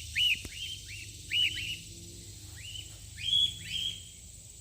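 Cockatiels giving repeated contact calls: about eight short chirps that rise and fall in pitch, some single and some in quick pairs.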